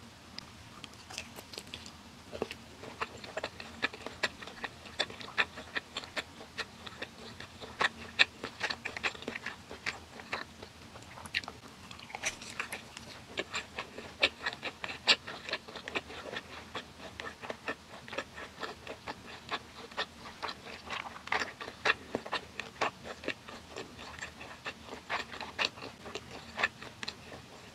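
Close-miked eating of yukjeon, the egg-battered Korean pan-fried beef slices: a bite, then steady chewing with many sharp, irregular wet mouth clicks.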